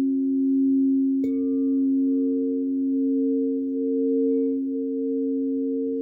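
Singing bowls ringing in steady, overlapping low tones; about a second in another bowl is struck and a higher tone joins, wavering slightly as it sustains.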